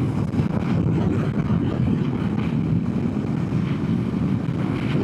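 Honda CB500X's 471 cc parallel-twin engine running at a steady cruise on the move, with some wind rush on the microphone.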